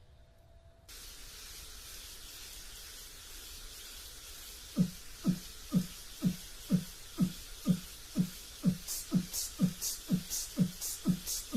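A steady hiss, then a kick-drum beat about two per second, each thump dropping quickly in pitch, joined halfway through by short hi-hat-like ticks between the beats.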